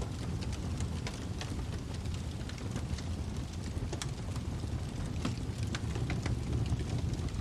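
Wood fire in a fireplace burning with a steady low rumble and frequent sharp crackles and pops scattered throughout.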